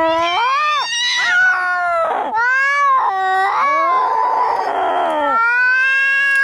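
Angry cats yowling in a fight: long drawn-out caterwauls that rise and fall in pitch, with a harsher, noisy stretch about four seconds in.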